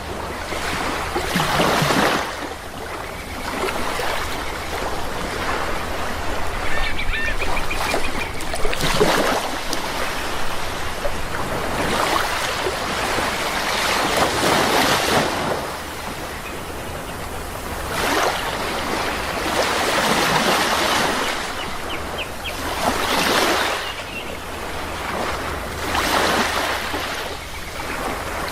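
Sea waves washing in, rising and falling in repeated surges every few seconds, with a few brief bird calls twice.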